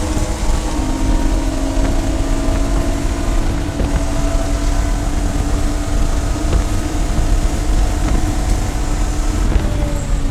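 Race car engine running at a steady, high speed over a constant low rumble, its note sagging slowly and then dropping near the end as the car comes off the throttle.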